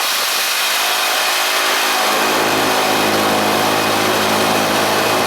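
Engine running at a steady pitch, coming in about two seconds in over a constant rushing noise.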